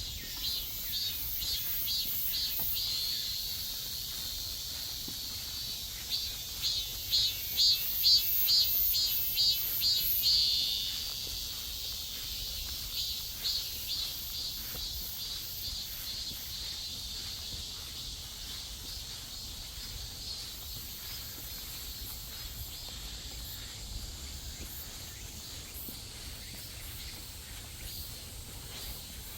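Cicadas calling in high, rapidly pulsed phrases. One call swells into a loud run of about three pulses a second, cuts off suddenly a little over a third of the way through, and fainter pulsing carries on after it.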